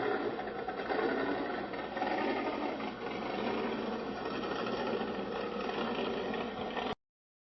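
An engine running steadily with a fast, even clatter, cut off abruptly near the end.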